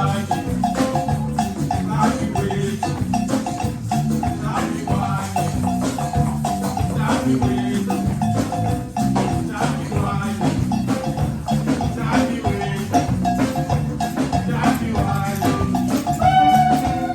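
Live band music from a percussion-led group, with a steady rhythmic beat and pitched instruments over it.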